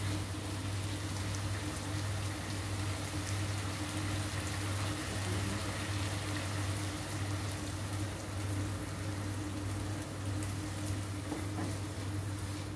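Stir-fry of pork, tofu and chilies sizzling in a nonstick wok, with a steady crackling hiss, over a steady low hum.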